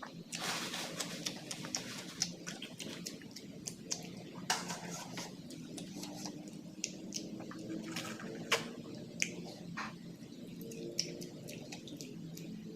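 Close-up eating sounds: irregular wet smacks and sharp crunchy clicks of chewing food, over a steady low background drone.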